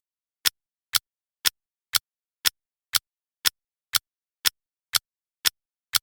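Clock ticking: sharp, even ticks, two a second, with silence between.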